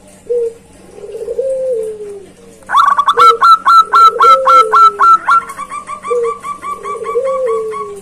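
Zebra dove (perkutut) cooing, three rolling phrases in a row, each rising and then falling away. Over the second and third phrases, a louder, rapid series of higher chirping notes from another bird runs at about three or four a second, fading a little after the halfway mark.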